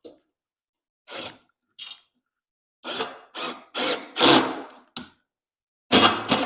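Power drill worked into wood in a series of short trigger bursts, about eight of them, stopping and starting, the loudest near the middle and near the end.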